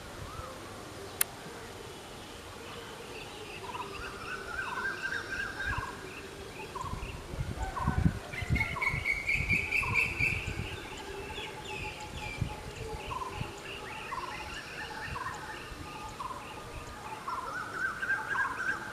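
Parrots calling: a run of short repeated notes at about two a second, mixed with rising squawks, and a louder harsh call about halfway through. There is a single sharp click about a second in and some low thumps near the loudest call.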